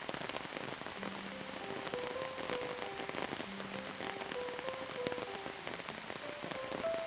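Steady rain falling, with many separate drops striking a surface. From about a second in, a slow, soft melody of single held notes plays over it.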